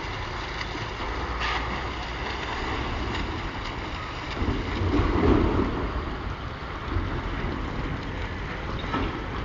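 River water splashing and sloshing around swimmers, with wind buffeting the microphone; the water swells louder for a moment about five seconds in.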